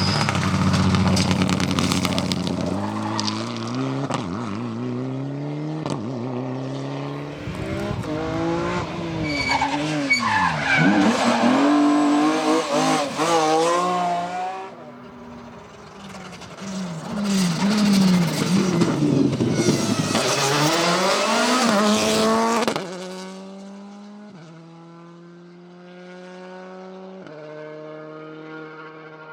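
Rally car engines at full throttle through a stage, the revs swinging sharply up and down with throttle blips and gear changes, with some tyre skidding. About two-thirds of the way through the sound drops off suddenly, and a car is heard more faintly accelerating away, its engine note climbing and then dropping at each upshift, about every three seconds.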